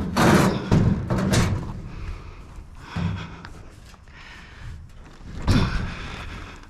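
Clattering knocks and bangs like a door or lid being opened and shut on a salvaged curbside item: a quick run of them at the start, another about three seconds in, and a louder bang about five and a half seconds in.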